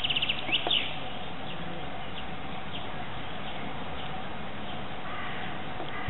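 Small birds chirping: a quick trill of high chirps at the start, a couple of short gliding calls just after, then scattered faint chirps over steady background noise.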